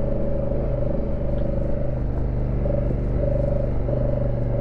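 2019 Honda Africa Twin CRF1000L DCT's parallel-twin engine running steadily at low speed over a rough dirt track, with a steady whine that drops out briefly a few times in the second half.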